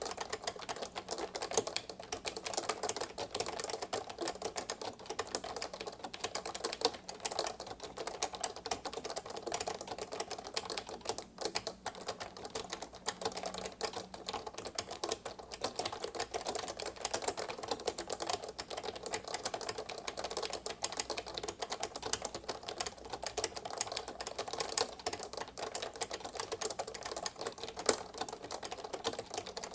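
Fast continuous typing on a 1984 Maxi-Switch Co. XT keyboard with rubber-dome switches and low-profile keycaps: a dense stream of short, light keystroke clicks, with an occasional louder stroke. The keys sound like a raindrop.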